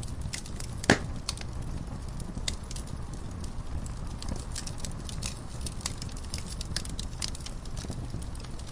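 Wood fire crackling in a fireplace: irregular snaps and small pops, with one sharp, louder pop about a second in, over a low steady rumble.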